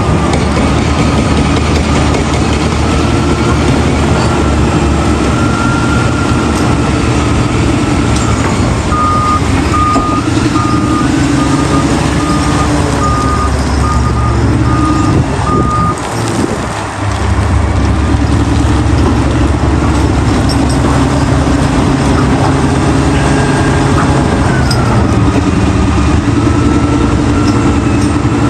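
Heavy diesel earthmoving machinery running, its engine pitch rising and falling with load. In the middle a backup alarm beeps steadily for about seven seconds, the sign of a machine reversing.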